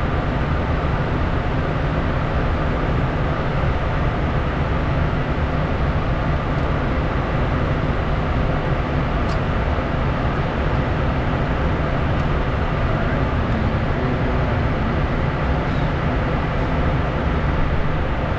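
Steady in-flight noise inside a Bombardier Challenger 350 business jet: a constant low rumble of airflow and engines.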